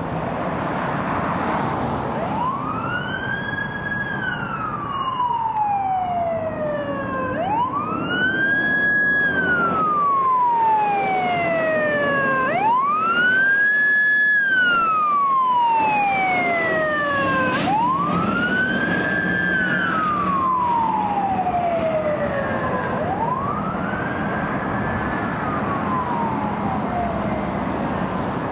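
Emergency vehicle siren on wail, rising quickly and falling slowly about every five seconds, over the low rumble of the truck's engine. A single sharp click comes about two-thirds of the way through.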